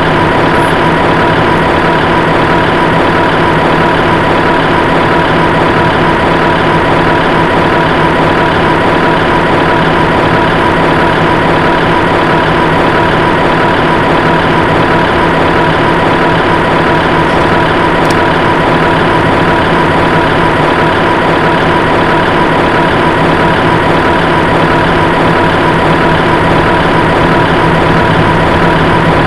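Heavy engine idling steadily at a constant pitch, with no change in speed.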